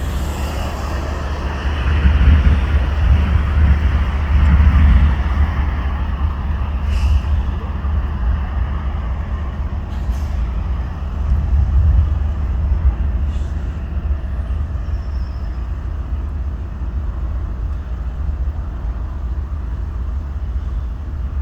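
Embraer E175 jet during takeoff in heavy rain: a steady deep rumble of its turbofan engines and rushing air, loudest a few seconds in, with a few faint short ticks.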